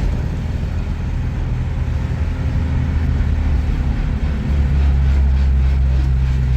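A steady low engine-like hum, getting a little louder about four and a half seconds in.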